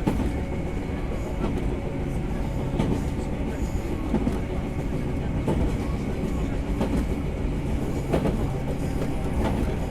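Interior running sound of the KuMoHa 123 electric railcar under way: a steady hum from the running gear, with the wheels clicking over rail joints about every second and a half.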